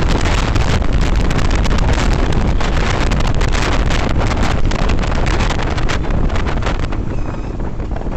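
Wind rushing and buffeting over the microphone of a motorcycle on the move, easing off near the end.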